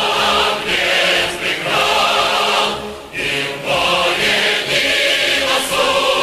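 Choral music: a choir singing long held notes in phrases, with brief breaths between them.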